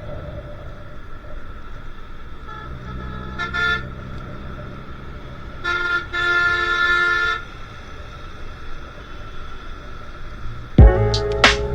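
A vehicle horn honks twice over steady traffic and road noise: a short toot about three and a half seconds in, then a longer blast of about a second and a half. Music comes in loudly near the end.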